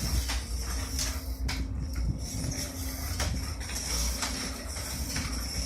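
A child's battery-powered ride-on toy car driving: its small electric motor gives a steady whine, with scattered clicks and knocks over a low rumble.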